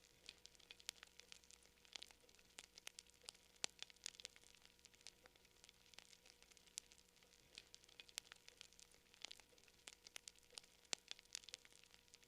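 Wood campfire crackling quietly: irregular sharp pops and snaps, several a second, some louder than others, over a faint hiss.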